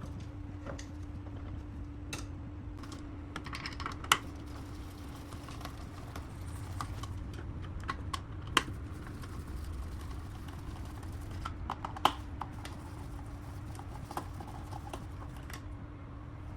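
Scattered sharp clicks and taps of hand work on parts, a few louder single clicks among lighter ones, over a steady low hum.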